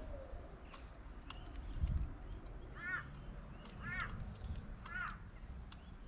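A bird calls three times, about a second apart, each call a short cawing note with rich overtones. Scattered light ticks run through, and there is a low thump about two seconds in.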